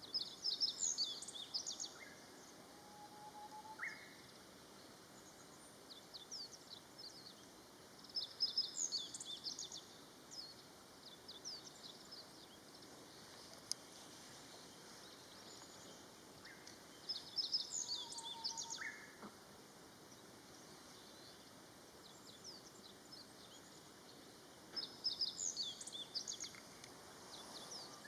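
Wild bird song outdoors: a short, high, twittering phrase repeated four times, about every eight seconds. A fainter, lower whistle follows two of the phrases.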